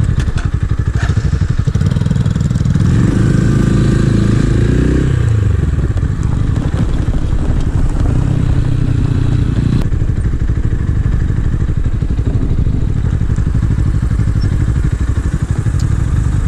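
250 cc scrambler motorcycle engine running under way, its note climbing and then dropping back as the rider works the throttle and gears, about three to five seconds in and again around eight to ten seconds.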